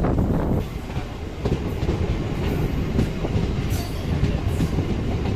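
MEMU electric train running on the track: a steady low rumble with scattered short knocks from the wheels and rails.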